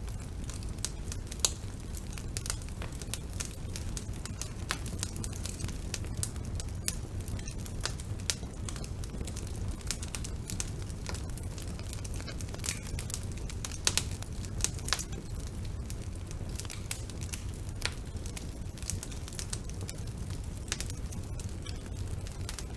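Wood fire burning in a fireplace: irregular crackles and sharp pops over a steady low rumble of the flames, with a few louder pops about a second and a half in and around the middle.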